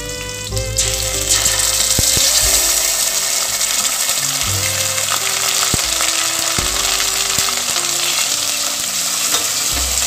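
Onions frying in hot oil in a cooking pot, the sizzle jumping suddenly louder about a second in as ginger-garlic paste goes into the oil, then staying steady while it is stirred, with a few sharp knocks.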